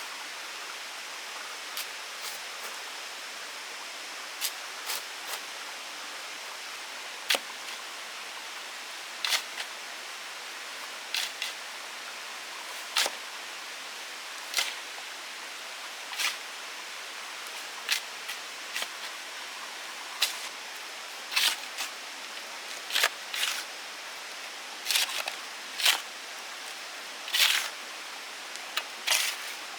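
Short sharp cracks or knocks over a steady hiss, sparse at first, then about one every second or two and louder in the second half.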